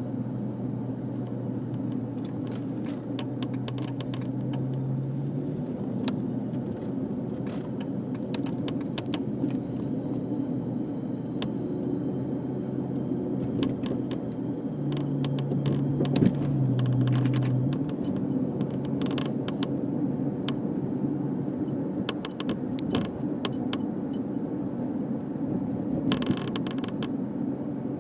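Dodge Charger SXT's 3.5-litre V6 with JBA shorty headers and a Pypes Street Pro cat-back exhaust, cruising at low RPM: a steady low exhaust hum that steps in pitch a couple of times and swells briefly about two thirds of the way in, with scattered light rattles and clicks over it.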